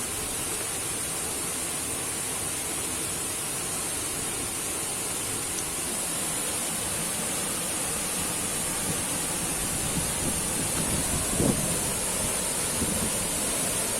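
Steady rushing roar of a waterfall, water crashing down without a break. A short, louder sound stands out about eleven seconds in.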